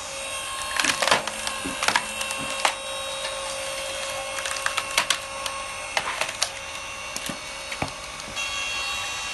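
Electric hydraulic log splitter running with a steady whine while wood cracks and splinters under the ram, in sharp snaps at irregular intervals, loudest about a second in.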